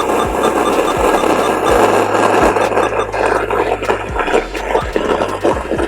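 Loud, even static hiss from a motorcycle stereo's speakers. It cuts in abruptly as the stereo goes to a radio frequency with no clear station, and a low bass hum and a few thumps carry on underneath.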